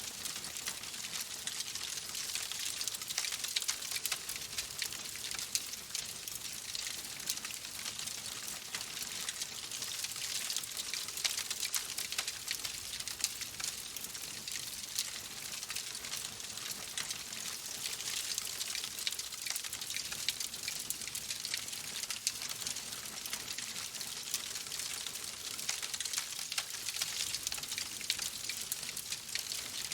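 Wood fire crackling in a fireplace: a steady soft hiss dotted with many small, sharp pops and snaps.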